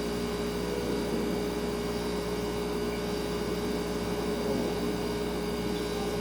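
Refrigerator humming steadily: a constant drone with one clear steady tone over a soft even hiss.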